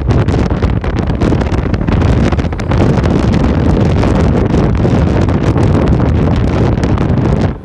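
Heavy wind buffeting the microphone of a camera carried on a moving bike ride: a loud, steady low rumble of noise with no distinct engine note, dropping out briefly near the end.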